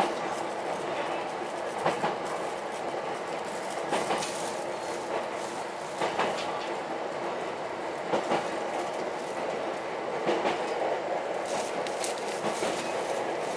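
Ichibata Electric Railway 7000-series electric railcar running along the line. It gives a steady rumble, and its wheels click over rail joints about every two seconds, several times as a quick double click.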